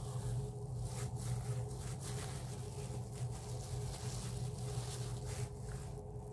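Soft chewing and mouth sounds of someone eating rice and chicken by hand, with faint rustles. Under them runs a steady low hum.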